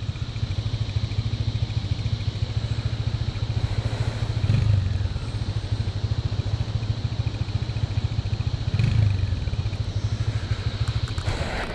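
Motorcycle engine running under way, its low exhaust pulse steady, swelling briefly as the throttle opens about four seconds in and again near nine seconds.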